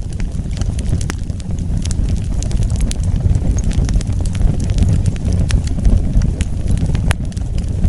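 Wood fire burning with a steady low rumble of the flames and frequent sharp crackles and pops from the burning wood, a few louder snaps among them.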